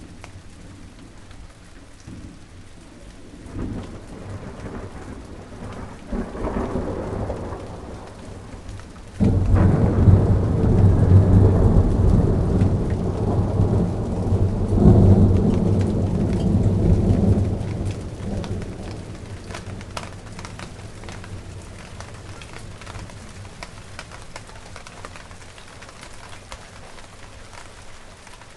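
Steady rain falling on a garden, with thunder rumbling: two short rolls early on, then a loud clap about nine seconds in that rolls on for several seconds before fading back to the rain.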